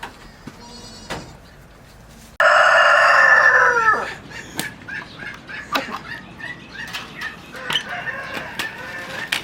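A rooster crows once, loudly, a couple of seconds in, the call dropping in pitch at its end. Chickens cluck with short, quieter calls before and after.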